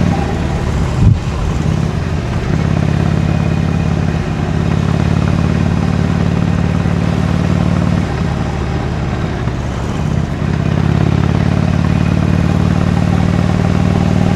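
Harley-Davidson Iron 883's air-cooled V-twin running through its stock exhaust while riding, with a brief thump about a second in. The engine note drops off twice, near the start and again at about eight to ten seconds in, then picks back up to a steady drone.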